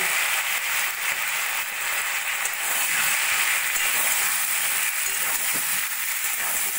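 Cubes of purple yam (mete alu) sizzling steadily as they fry in hot oil in an iron kadai, with a steel spatula stirring them.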